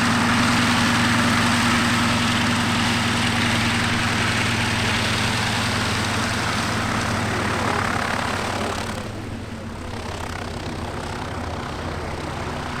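Piston engine of a propeller warbird running steadily, its noise easing off somewhat about nine seconds in.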